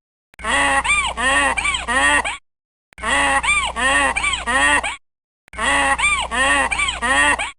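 Donkey braying: a two-second bray of repeated rising-and-falling calls, heard three times over with short silences between.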